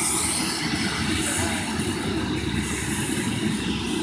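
Army helicopter taking off: a steady, rapid low rotor beat with engine hiss above it.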